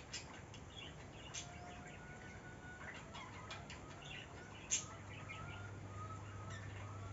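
Birds calling outdoors: many short, repeated chirps, with a few sharp clicks among them, the loudest about five seconds in. A low steady hum comes in near the end.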